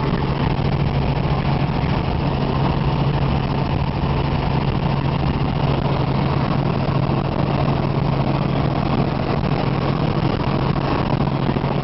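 Helicopter in flight heard from inside the cabin: a steady, loud drone of engine and rotors with a constant low hum, unchanging throughout.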